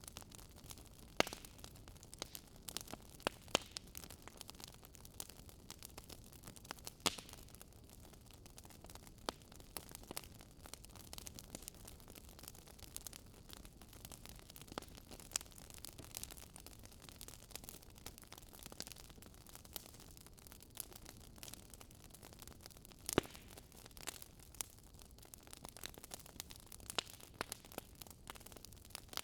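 Wood fire crackling: a soft steady hiss with irregular sharp pops and snaps, a few of them louder than the rest.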